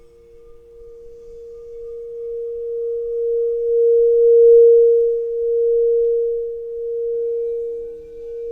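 Singing bowls ringing with pure, sustained tones. One tone swells up over the first few seconds and then throbs in slow waves of loudness. A second, lower bowl tone joins near the end.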